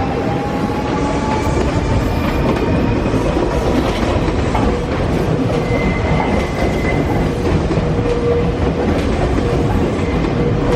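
Nankai electric train in motion, its wheels clacking over rail joints, with a motor whine rising in pitch over the first few seconds and then holding steady.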